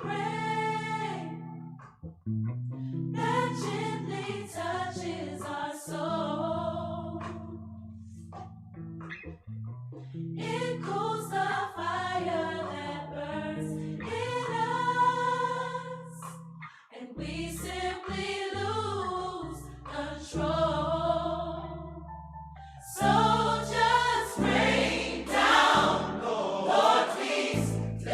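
Gospel music: a choir singing in phrases over sustained low accompaniment, briefly dropping away between phrases. About two-thirds of the way through it grows fuller and louder.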